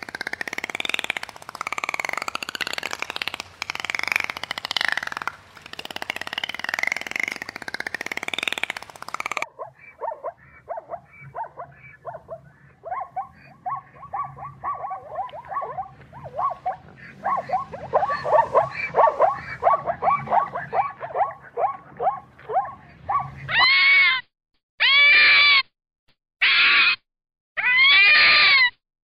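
Animal calls from three different animals in turn. First come loud calls that rise and fall in pitch, then a long, fast series of short chattering notes, and about two-thirds of the way in come separate clear calls about a second each.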